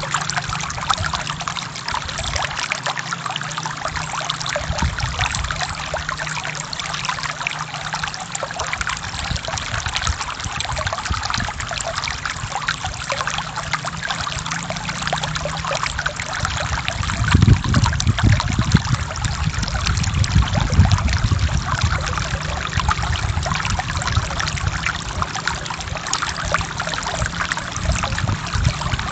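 Forest river water flowing and splashing over rocks in a steady rush, with a deeper low rumble swelling for a few seconds past the middle.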